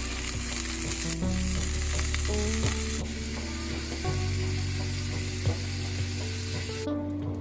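Green beans sizzling as they sauté in a nonstick frying pan, with a utensil stirring and clicking against the pan now and then; the beans are done, and the sizzle cuts off near the end.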